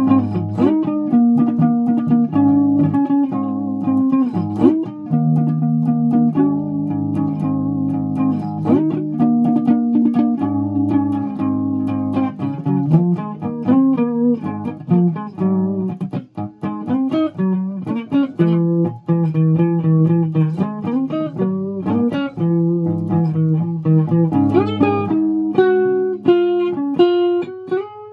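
A guitar being played: plucked notes and chords that change every second or so, a lower part held under a higher melody.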